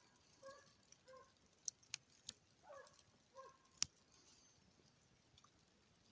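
Hound baying faintly far off while chasing a hare, a series of short yelps in the first few seconds. A few sharp clicks sound near the middle.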